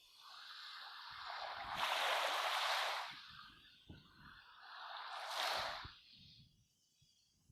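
Two swells of rushing noise like waves washing in, the first longer and louder, peaking about two seconds in, the second shorter, near five seconds, then dying away.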